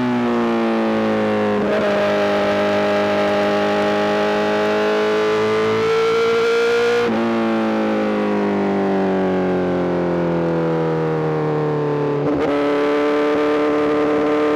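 Honda CBR1000RR-R SP inline-four running through a full Arrow GP exhaust, heard while riding: a loud, raspy engine note whose pitch slowly falls and rises with engine speed, with gear changes marked by short breaks about two, seven and twelve seconds in.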